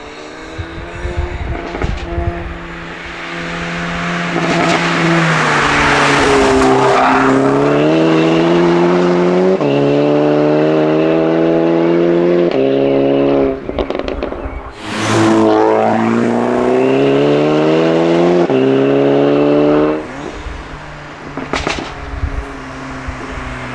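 Tuned Mk8 Golf GTI Clubsport's turbocharged four-cylinder at full throttle, accelerating hard past the camera. The engine note climbs through each gear and drops at each quick upshift; the car sweeps by twice, the pitch falling as it passes.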